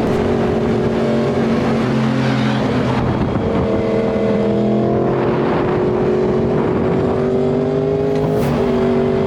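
Motorcycle engine running under way, its pitch climbing slowly and stepping up and down between gears, over steady wind and road noise.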